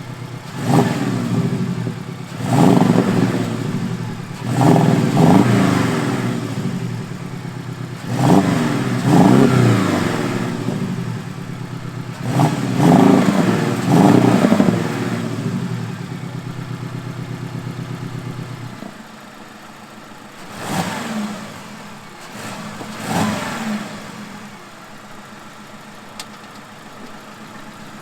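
Porsche 718 Cayman T's 2.0-litre turbocharged flat-four revved repeatedly through a Baq active exhaust, each rev rising and falling back, about five in a row. It then holds a steady idle that drops lower about nineteen seconds in, followed by two short throttle blips.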